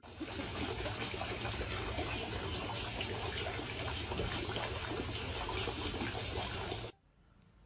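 Running water, a steady splashing trickle like a tap, that cuts off abruptly about seven seconds in.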